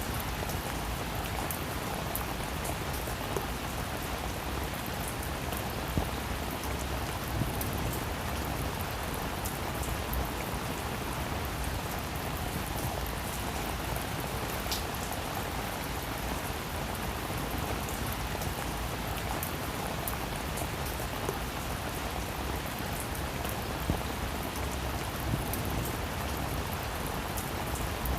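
Steady rain falling on a roof: an even hiss with scattered louder single drops striking.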